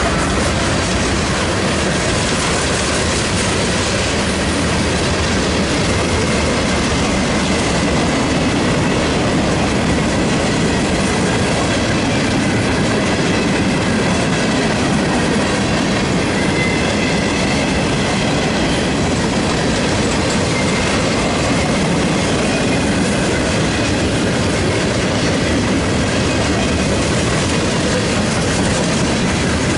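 Freight cars of a CSX train rolling past close by: a steady, loud noise of steel wheels running over the rails, with clickety-clack from the wheels and a few faint high tones at times.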